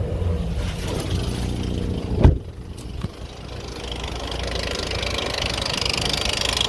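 Nissan car engine running with a fast, even ticking, the ticking the owner fears may be a serious fault. A single sharp knock about two seconds in is the loudest moment, and the ticking grows louder toward the end.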